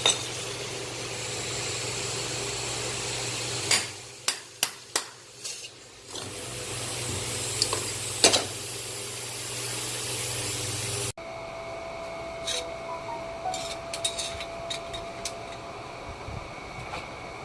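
Workshop sounds of brake caliper servicing: a steady hiss with a low machine hum, broken by a quick run of sharp metallic clinks about four seconds in and another clink a few seconds later. After an abrupt cut, quieter small metal taps and clicks of caliper parts being handled over a faint steady tone.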